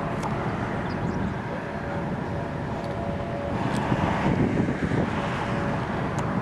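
Thunderstorm wind and rain making a steady rumbling noise, with a few sharp ticks and a swell about halfway through.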